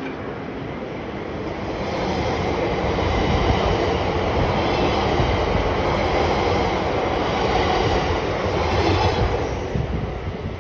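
A train going by on the line, its wheels and running gear making a wide rumbling noise. It builds over the first two seconds, stays loud for several seconds, then fades near the end.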